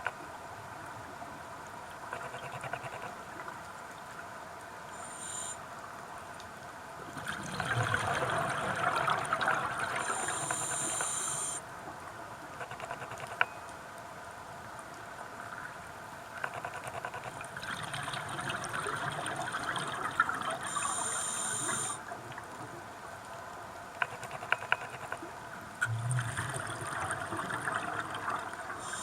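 Scuba diver's regulator breathing heard underwater: three long rushes of exhaled bubbles about ten seconds apart, each ending in a higher hiss from the regulator, with small clicks in between.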